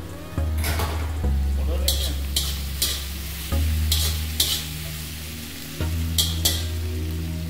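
Chopped vegetables sizzling in oil in a wok while a spatula stirs them, with several short scrapes of the spatula against the pan, often in pairs.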